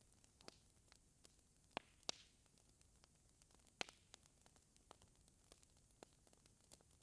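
Faint crackling of a wood fire in a fireplace: irregular small pops and snaps over a low hiss, with a few louder snaps.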